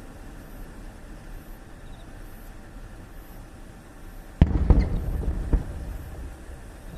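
An aerial firework shell bursting with a sudden loud boom about four and a half seconds in, followed by a second or so of crackling pops and a rumbling echo.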